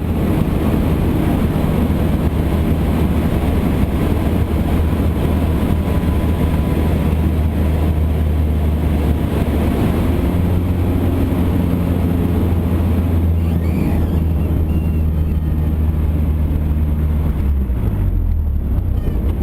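Cessna 152 Aerobat's four-cylinder Lycoming O-235 engine and propeller droning steadily in flight, the engine note dropping in pitch near the end.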